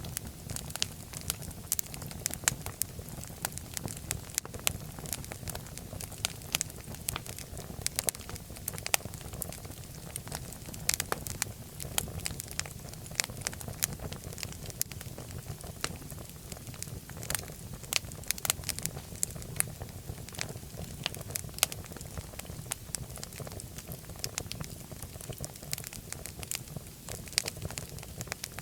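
Fire burning in a fireplace, crackling steadily with frequent sharp, irregular pops over a low, even rumble of the flames.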